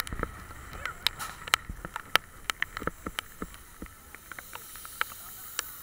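Raindrops striking the camera, heard as many irregular sharp ticks over a steady hiss.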